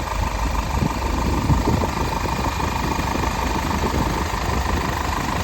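Hino 195 box truck's 5.0-litre diesel engine idling steadily, with a thin steady whine above the low rumble.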